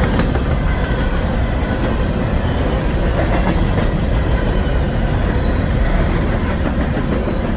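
A CSX freight train of rapid-discharge coal hopper cars rolls past close by, making a loud, steady rumble of wheels on rail. Faint high squealing tones ride over it.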